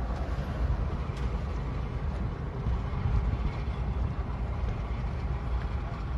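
Wind buffeting an outdoor microphone: a steady, uneven low rumble with no clear engine tone in it.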